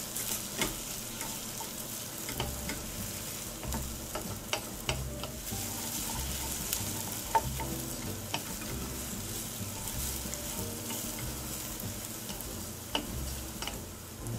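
A wooden spatula stirring and scraping onions, whole spices and coconut as they fry in oil in a stainless steel saucepan, with a steady light sizzle and scattered clicks of the spatula against the pan. The coconut is being toasted in the pan until fragrant.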